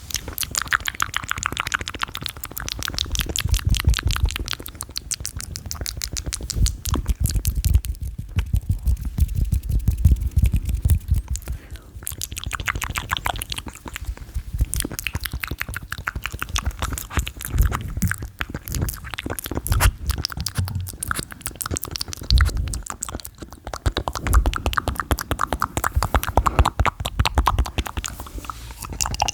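Fast, aggressive ASMR mouth sounds right on the microphone: a dense run of rapid clicks and pops with deep thuddy low end.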